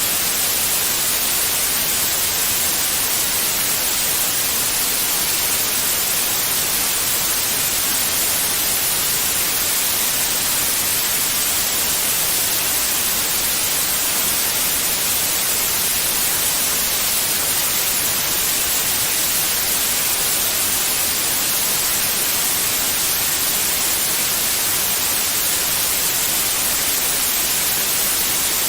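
Steady electronic white noise: an unchanging hiss with no breaks or events, brightest in the high frequencies.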